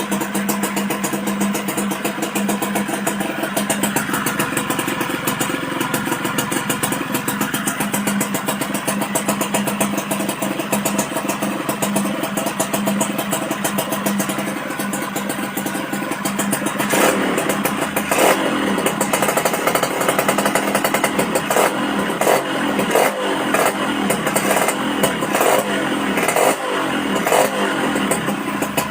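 Suzuki Crystal RC110's two-stroke engine running through a stainless tune pipe (expansion-chamber exhaust). It runs steadily, then from a little past halfway the throttle is blipped over and over, the revs rising and dropping back each time.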